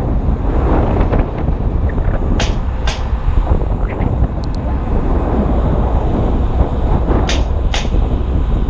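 Strong wind buffeting a GoPro Hero 2's microphone, a loud, steady low rumble. Two pairs of sharp knocks cut through it, one pair about two and a half seconds in and another near the end.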